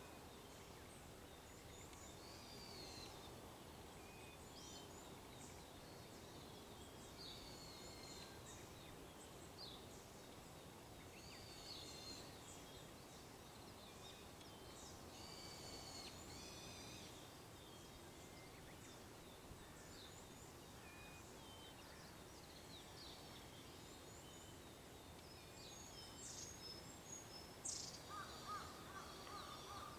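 Faint dawn chorus of wild songbirds: many short chirps and trills scattered throughout over a steady low background hiss. Near the end a crow starts cawing repeatedly.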